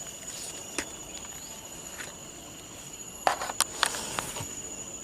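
Insects buzzing steadily on a high thin pitch, with a few sharp clicks and knocks, most of them bunched together about three and a half seconds in.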